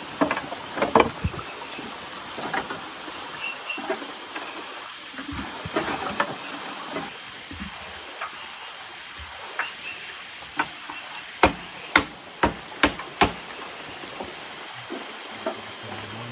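A series of sharp knocks, five loud ones in quick succession about two-thirds of the way in, with lighter scattered knocks before, over a steady hiss.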